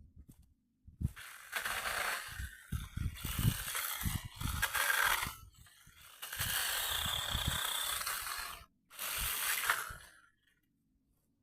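Branches rustling and crunching as they are handled and dragged, in three long stretches with soft thumps underneath, stopping about ten seconds in.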